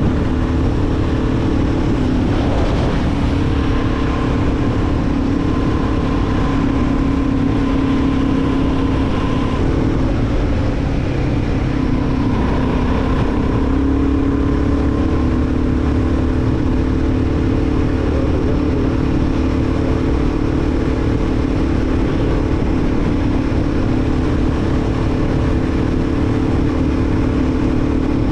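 Royal Enfield Guerrilla 450's single-cylinder engine running at a steady highway cruise, its pitch holding nearly level, with road rumble underneath.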